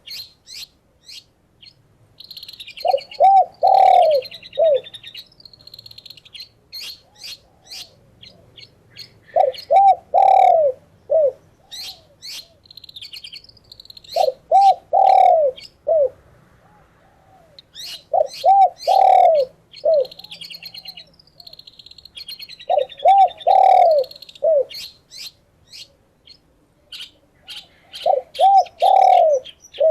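A dove cooing in repeated phrases of a few low notes, the last ones drawn out, one phrase every four to five seconds. Between the phrases, songbirds chirp and trill in quick high notes.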